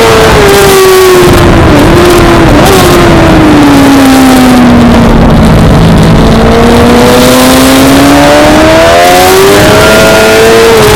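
Suzuki GSX-R600 inline-four engine on track, its revs falling with two quick blips as it shifts down, bottoming out around the middle, then climbing steadily again as it accelerates out of the corner. A steady rushing noise runs underneath.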